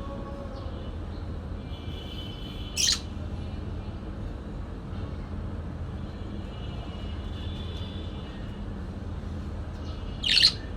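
Parakeet chattering softly, with two short, loud squawks, one about three seconds in and one near the end, over a steady low background hum.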